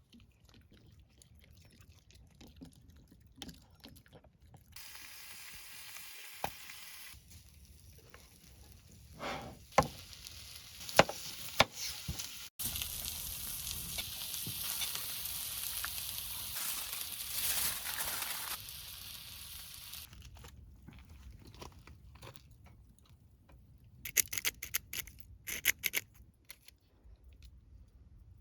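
Hissing, sizzling sound with scattered sharp clicks and knocks; the loudest hiss starts abruptly about halfway through and lasts about six seconds before fading, and a quick run of clicks comes near the end.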